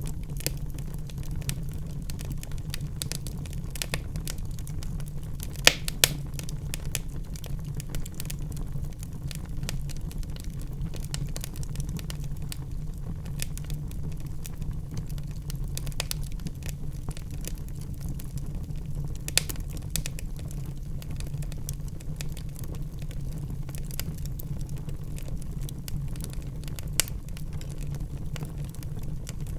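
Wood fire in a fireplace crackling: a steady low rumble of the flames with frequent sharp pops and snaps, a few of them louder, two close together about six seconds in.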